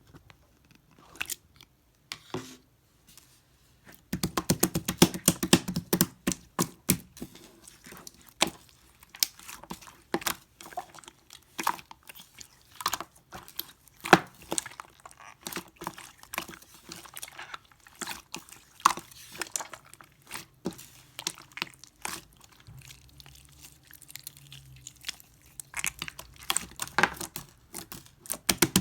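Pearl slime squished and pressed by hand, giving rapid sticky clicks, pops and crackles. A few scattered clicks at first, then dense, with a short lull about three-quarters of the way through.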